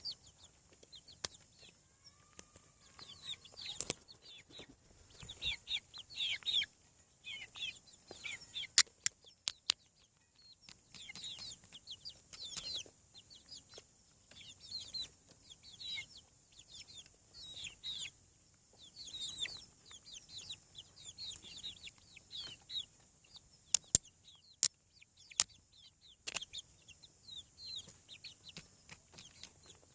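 Chicks peeping: many short, high, falling peeps in quick runs, with scattered sharp clicks.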